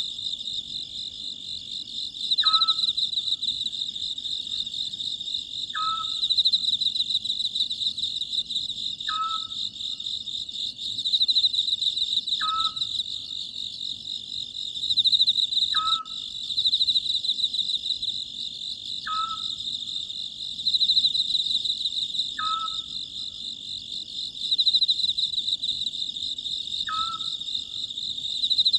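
Oriental scops owl calling, a short note that drops quickly in pitch, repeated evenly about every three seconds, eight times, over steady high trilling of night insects.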